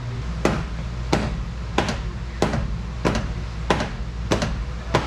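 A hand tool working on the exhaust pipe's fittings: about eight short, sharp clicks or taps at an even pace of roughly three every two seconds.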